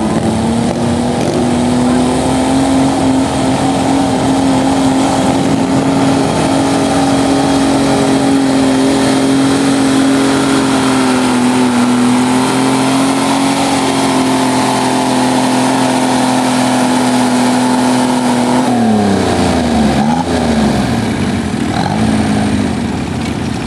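Diesel garden tractor engine running flat out under load as it pulls a weighted sled, its pitch held nearly steady. About three-quarters of the way through, the revs drop sharply and then rise and fall a few times as the engine is throttled back at the end of the pull.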